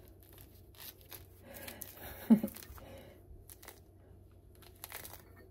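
Faint rustles and small clicks of food being handled while a bowl of Greek yogurt is topped, with a brief falling voice sound about two seconds in.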